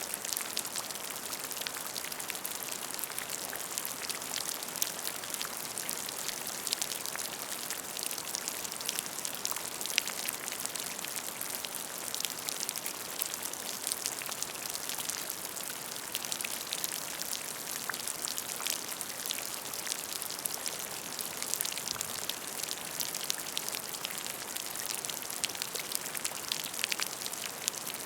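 Steady rain falling on a puddle: a continuous hiss with many small, separate drop splashes ticking through it.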